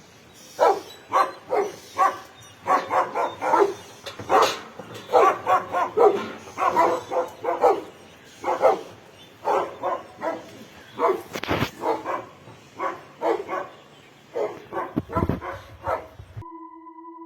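Dog barking in a long series of short, repeated barks, with one sharp knock about two-thirds of the way through. The barking cuts off suddenly near the end, and a few steady music tones take over.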